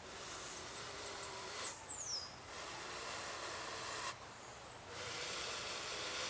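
A person blowing long, steady breaths into a smouldering bamboo friction-fire ember and tinder to coax it into flame. Three long blows, each about a second and a half, with short pauses between them for breath.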